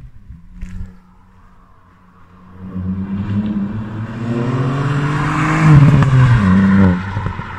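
Ford Fiesta ST mk8's turbocharged 1.5-litre three-cylinder engine, on a modified exhaust, accelerating hard toward and past: it grows louder and rises in pitch for several seconds. The pitch drops once near the end before the sound cuts off abruptly.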